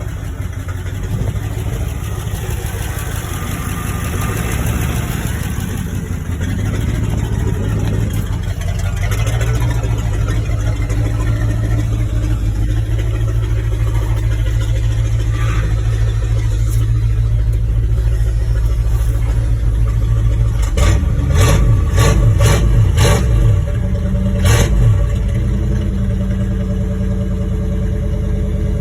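1988 Dodge W100 pickup's engine running with its exhaust cut off at the transfer case, open-piped ahead of the muffler. It runs steadily, then is revved in several quick blips about three quarters of the way through.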